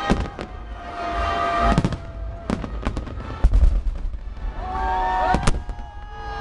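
Fireworks display going off: irregular sharp bangs, several close together in quick bursts.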